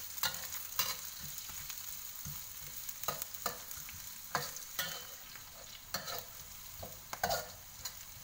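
Chopped garlic and onion sizzling in hot oil in a wok, sautéing toward golden brown, while a spatula stirs them with short, irregular scraping strokes against the pan.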